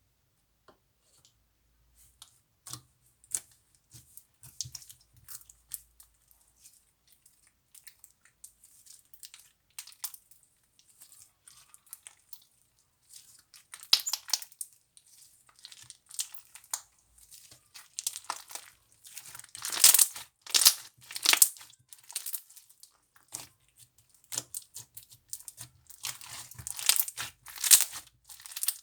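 Slime being squeezed and stretched by hand, giving crisp crackling and popping clicks. They come sparsely at first, then in dense, louder clusters in the middle and again near the end.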